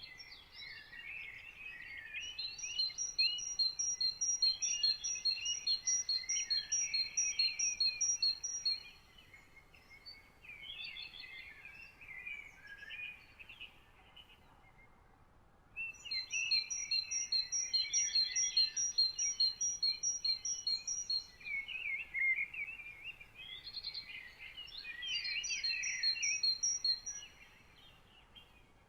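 Several songbirds singing together. One repeats a high, evenly spaced note about three times a second over busier warbling songs, in two long bouts with a quieter stretch of scattered calls between.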